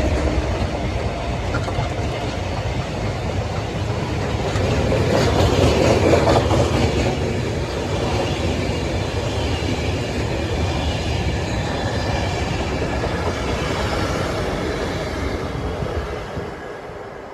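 Diesel-hauled freight train passing close by, its wagons rolling along the track with wheel clatter, swelling about midway and fading near the end.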